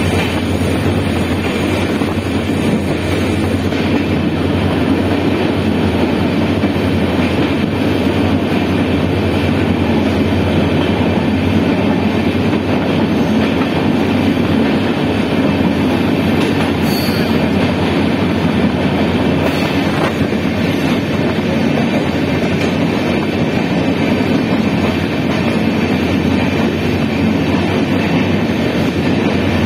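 Passenger train running along the track: a steady, continuous rumble of wheels on rail.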